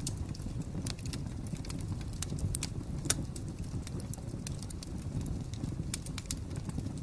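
Fire crackling: a steady low rumble of flames with irregular sharp pops and snaps, one louder pop about three seconds in.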